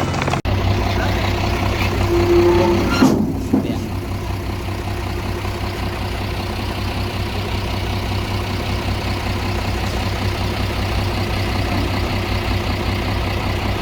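Heavy diesel engine of construction machinery running steadily with a low, pulsing drone, with a short burst of noise about three seconds in.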